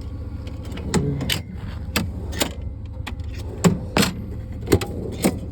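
Irregular metallic clinks and knocks of hand tools being handled and rummaged through, about ten sharp strikes, over a steady low engine rumble.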